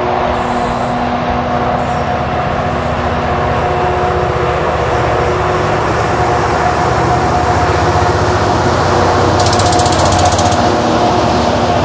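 Two Queensland Rail locomotives hauling a 10,600-tonne coal train slowly up a grade, working hard with a steady whine over a low rumble, their wheels sanded and creeping under the load. Near the end a rapid high clicking lasts about a second, and the rumble of the loaded coal wagons builds as they begin to pass.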